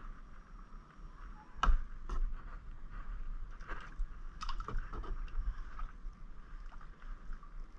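Kayak being paddled: a string of irregular sharp knocks and splashes, the loudest about a second and a half in, over a faint steady hiss.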